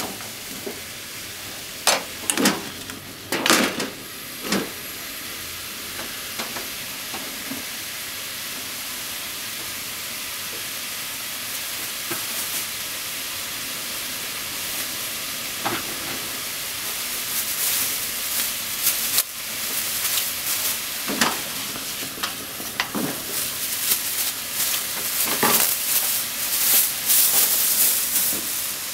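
Potato and onion pieces frying in oil in a frying pan, a steady sizzle. A wooden spatula stirs and knocks against the pan a few times in the first few seconds. From about halfway on the sizzle grows louder, with scattered crackling pops.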